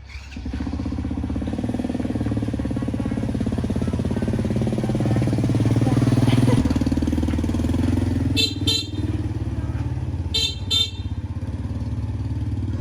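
Motorbike engine starting up and running steadily, revving higher about halfway through and then easing back. Near the end the horn gives two pairs of short beeps.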